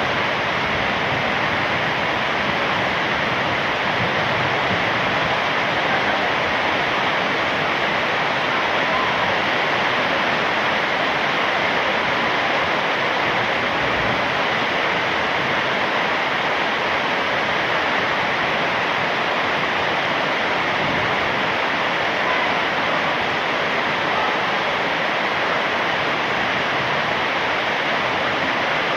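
Heavy rain falling steadily: an even, unbroken hiss of water.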